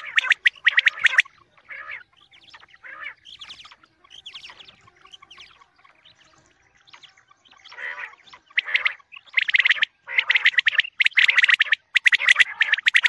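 Birds calling in bursts of rapid pulsed notes. The calls are loud near the start and again from about eight seconds on, with softer scattered calls in between.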